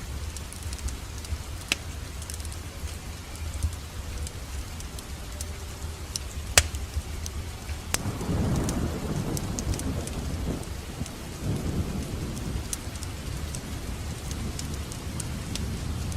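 Wood fire crackling in a fireplace: scattered sharp pops over a low, steady rumble, with one loud pop about six and a half seconds in. From about eight seconds a rushing swell rises in the flames for a few seconds, then settles back.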